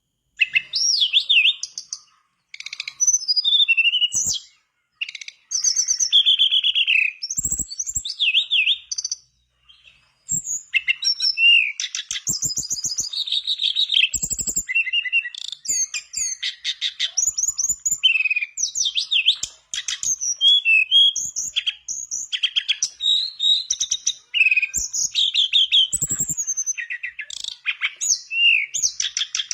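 Tledekan bakau songbird in full song: a fast, near-continuous run of varied high whistled phrases, slurs and trills, with a few short pauses in the first ten seconds.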